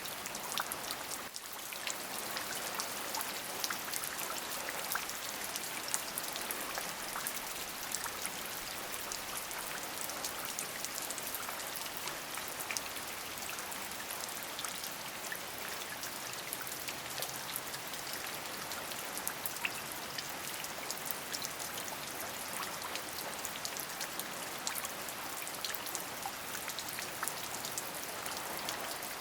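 Steady rain falling, many close drop impacts ticking over an even hiss, with a brief dip in level about a second in.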